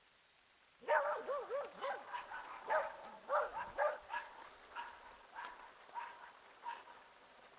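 Domestic animal calling: a run of short, pitched cries with a wavering pitch. They start about a second in, loudest at first, and grow fainter toward the end.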